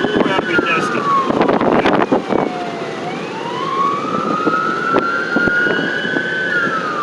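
Emergency vehicle siren on a slow wail: the pitch falls, rises over about three seconds, then falls again near the end. Clattering noise runs under it for the first couple of seconds.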